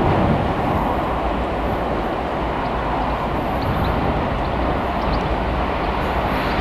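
A train rolling past on the rails, a steady rumble of wheels and running gear.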